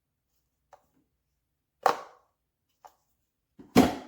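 Plastic clacks of a magnetic diffuser attachment snapping onto and being handled on a hair dryer's nozzle: two loud clacks about two seconds apart, with fainter taps between.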